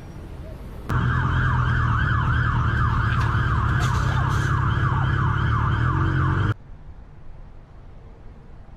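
Emergency vehicle siren in a fast yelp, rising sweeps repeating about three times a second over a low rumble. It starts suddenly about a second in and cuts off abruptly about five and a half seconds later.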